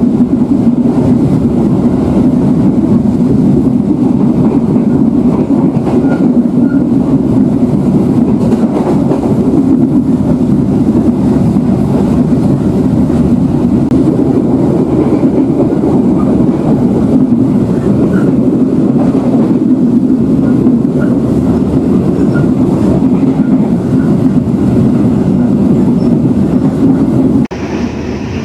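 Passenger train running along the track: a steady, loud rumble of wheels and coach. About a second before the end it cuts abruptly to a quieter, different train sound.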